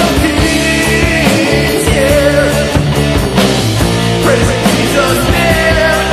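Loud heavy metal rock music: distorted electric guitars over a driving drum beat.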